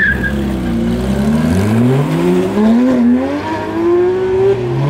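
Porsche 911 flat-six engine revving hard under full acceleration as the car pulls away, pitch climbing through the gears with an upshift about three seconds in and another near the end.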